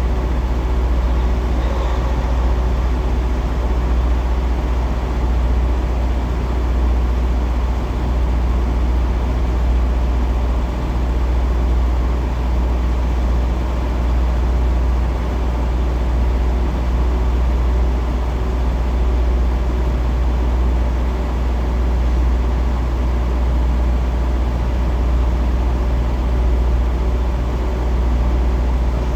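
Heavy diesel engine of a tractor-trailer running steadily at low revs, a deep constant rumble with no change in pitch.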